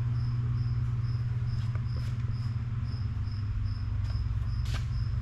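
A cricket chirping steadily, about three chirps a second, over a steady low hum.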